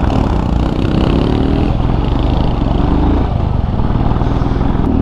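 Motorcycle engines running while riding, a loud 'badra badra badra' beat; one engine revs up briefly about a second in.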